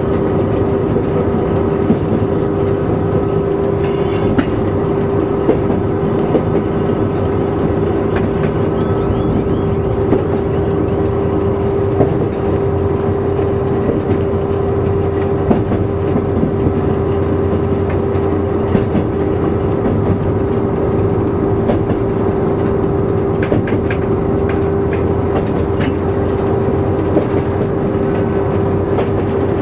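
Train running at speed, heard from the driver's cab: a steady drone with a constant hum, and scattered clicks of the wheels over rail joints and points.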